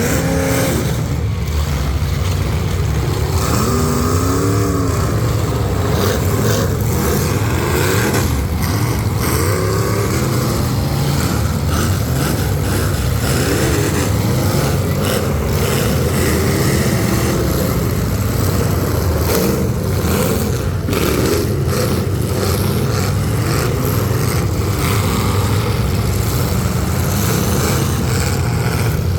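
Several full-size demolition derby cars' engines running and revving hard, their pitch rising and falling, with a few sharp knocks.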